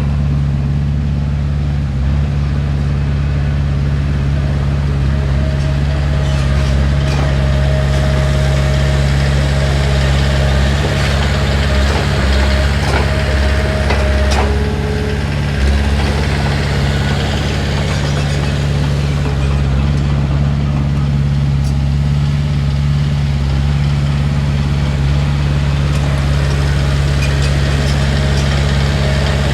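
Heavy diesel engine of an earthmoving machine running steadily at a constant speed, with a faint high whine for several seconds midway.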